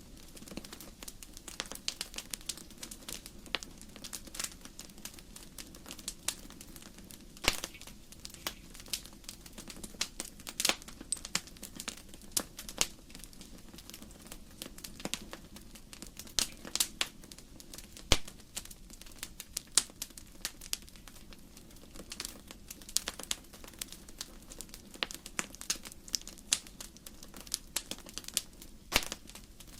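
Wood fire crackling in a fireplace: irregular sharp pops and snaps from the burning logs, with a few louder snaps scattered through, over a steady low rumble of the flames.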